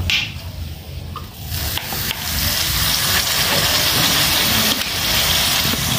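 Chicken in a hot wok sizzling as soy sauce is poured in; the sizzling swells about two seconds in and then holds steady.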